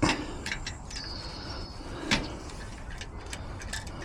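A few sharp knocks and clicks, the loudest at the start and another about two seconds in, with a brief high squeak about a second in, over a steady low background hum.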